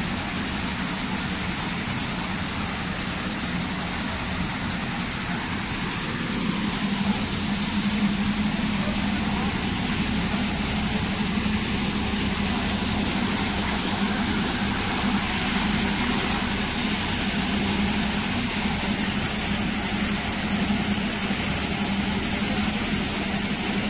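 New Holland 8080 combine harvester running steadily while harvesting corn: a constant low engine hum with a high mechanical hiss over it, growing slightly louder over the second half.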